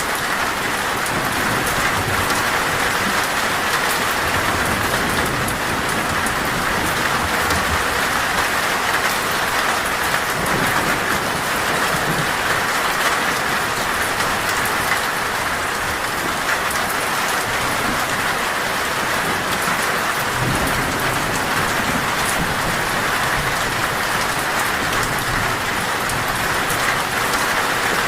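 Heavy torrential rain falling steadily on a metal roof, with low rumbles of thunder underneath, one swelling about twenty seconds in.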